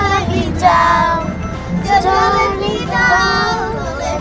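A child's voice singing a song with music, held notes rising and falling, over a steady low hum.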